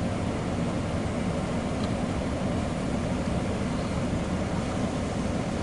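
Steady rumble of a CSX intermodal freight train's cars rolling past on the rails.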